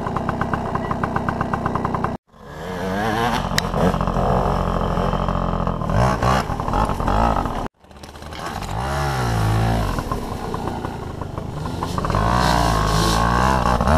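Yamaha PW80 (Peewee 80) two-stroke single-cylinder dirt bike engine revving up and down repeatedly as the bike is ridden, heard from a helmet-mounted camera. The sound cuts off abruptly twice, about two seconds in and again past the middle.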